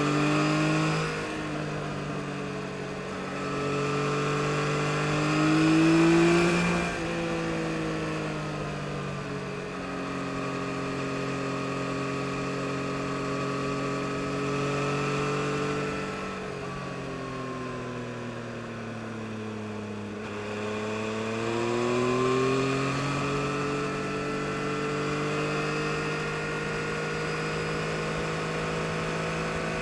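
2022 Yamaha MT-09 SP's 890 cc three-cylinder engine under way. It revs up with sudden drops in pitch at upshifts about a second in and again around seven seconds, the loudest pull just before the second one. The pitch falls steadily as the bike slows from about 16 to 20 seconds, then picks up again and holds.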